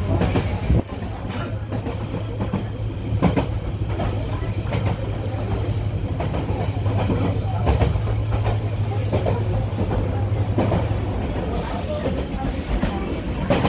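Passenger train running at speed, heard from on board: a steady low rumble with irregular clicks and knocks of the wheels over the rail joints. A brief high wheel squeal comes about nine seconds in.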